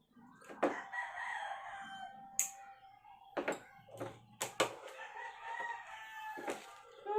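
A rooster crowing, one long drawn-out crow that falls slightly in pitch, followed by a fainter call, with several sharp clicks or knocks in between.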